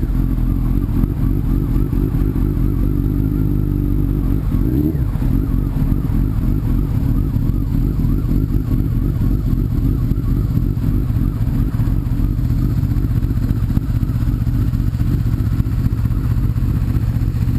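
Sport bike engine running steadily under way, with a short rise in pitch about four to five seconds in.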